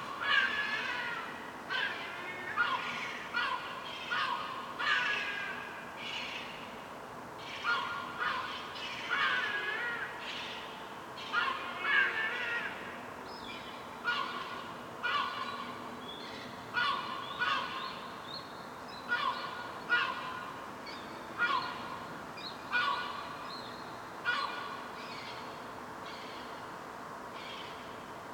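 Herring gulls calling: a long run of short, pitched cries about one a second, some bending in pitch, which die out near the end.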